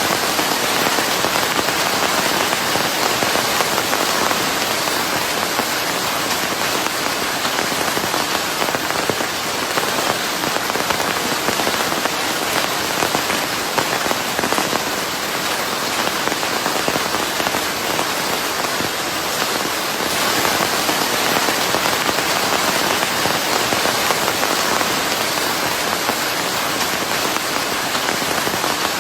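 Steady rain mixed with white noise: an even, unbroken hiss from low to very high pitches, with no pauses.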